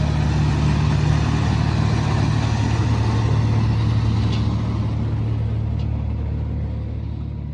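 A heavy vehicle's engine running steadily with a low drone, starting to fade out near the end.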